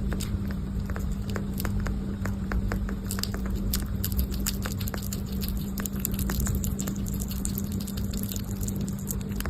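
Sugar glider biting and chewing a snack: a quick, irregular run of small crunching clicks, over a steady low hum.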